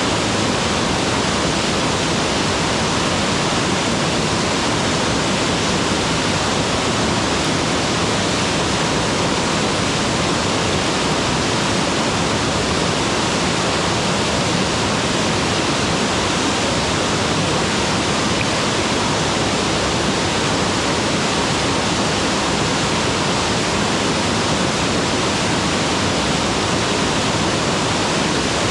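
Mountain waterfall pouring with a loud, steady, unbroken rush of water.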